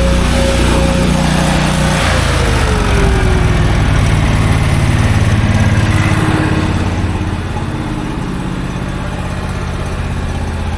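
An engine running steadily; about two seconds in its pitch drops, and after about seven seconds it gets a little quieter.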